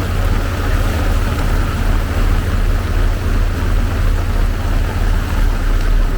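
Heavy downpour: a steady, loud hiss of rain over a constant low rumble.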